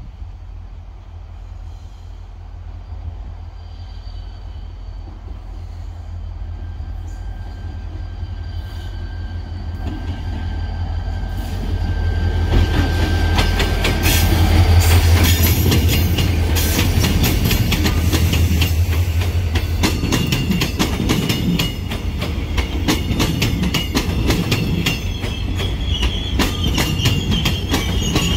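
Diesel-electric locomotive DEL 7477 hauling a passenger train. Its engine drone grows steadily louder as it approaches and is loudest as it goes by about halfway through. The carriages then roll past with fast wheel clatter over the rail joints and a thin, high wheel squeal.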